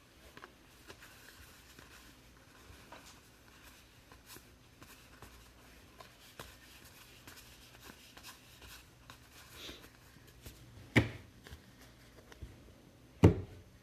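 Trading cards being handled, with faint rustling and small clicks as they are slid through the hands. Near the end come two sharp knocks about two seconds apart, like cards or a stack being set down on the table.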